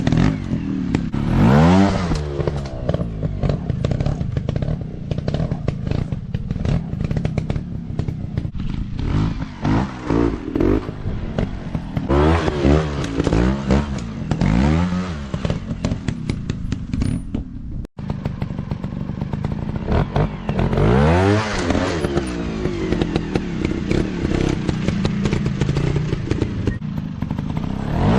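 Dirt bike engines revving up and down as bikes ride past, the pitch sweeping up and falling away again and again, with some clatter and thuds. The sound drops out for an instant a little past the middle.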